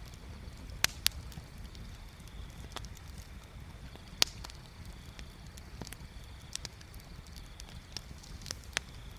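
Wood bonfire crackling, with irregular small ticks and sharp pops: two close together about a second in and a louder one about four seconds in, over a steady low rumble.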